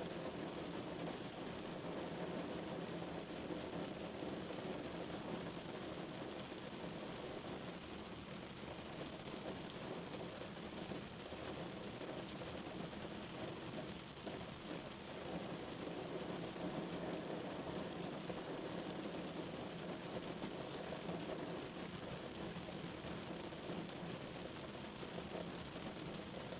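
Steady rain drumming on a car, a dense, even patter with a low rumble, heard from inside the car.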